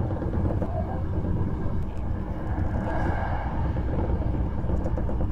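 Hankyu 1300 series electric train running, heard from inside the car: a steady low rumble of the wheels on the rails.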